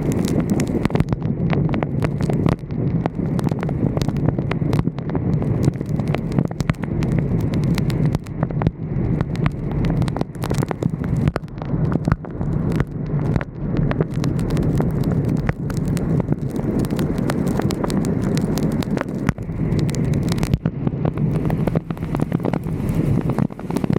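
Wind and road noise on a roof-mounted camera of a moving vehicle: a steady low rumble with frequent irregular clicks and pops.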